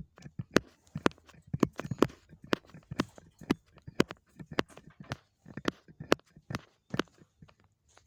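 A run of irregular sharp knocks and clicks, about two or three a second.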